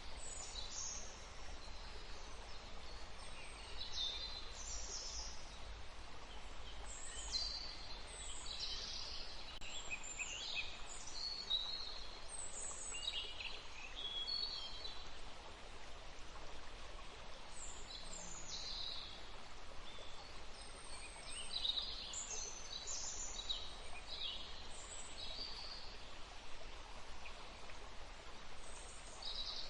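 Songbirds singing and calling in quick, high notes, many falling in pitch, over the steady rush of a forest stream.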